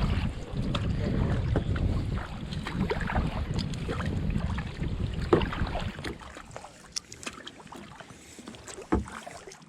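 Kayak on the water: wind rumbling on the microphone over water splashing, with scattered sharp knocks. The rumble drops away about six seconds in, leaving quieter water sounds and a louder knock near the end.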